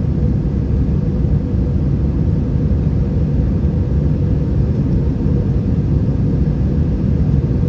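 Steady low rumble inside the cabin of an Airbus A320 with IAE V2500 engines, with a faint steady hum on top.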